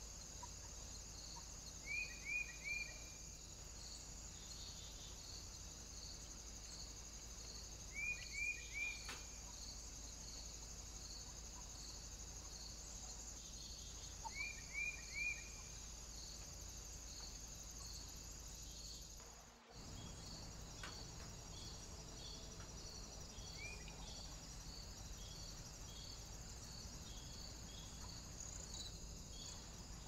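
A small bird calling in short falling chirps, three at a time, repeated three times about six seconds apart, with one more single chirp later. Behind it runs a steady, faint, high pulsing chirr.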